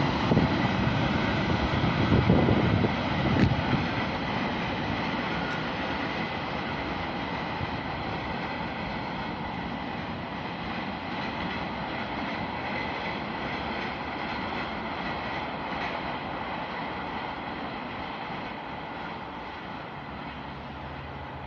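Freight train wagons rolling past on the rails, with a few wheel knocks and a heavy rumble in the first few seconds, then a steady rolling noise that slowly fades as the train moves away.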